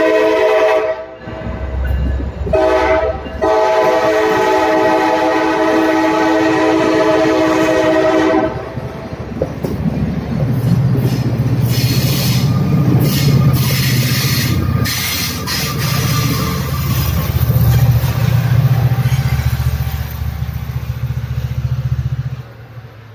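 Amtrak diesel locomotive sounding its multi-tone horn: a short blast, then a long blast of about six seconds. The horn is followed by the low, steady rumble of the locomotive's engine and the clatter of wheels on the rails as the train rolls in.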